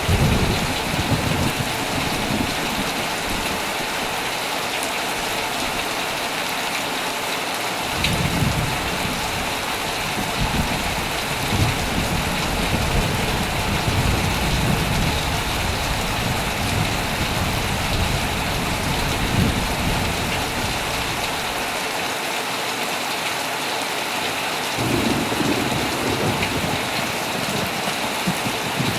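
Heavy rain pattering steadily on a tent, with low rolling thunder rumbling at the start, through a long stretch in the middle, and again near the end.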